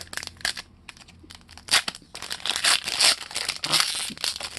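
Crinkling and rustling of a trading-card pack wrapper being handled and torn, with many small clicks. The sound is sparse at first and gets busier from just under two seconds in.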